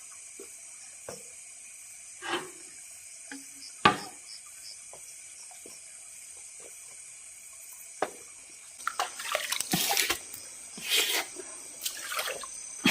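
Water splashing and sloshing in irregular bursts through the second half, after a few scattered knocks, over a steady chorus of night insects.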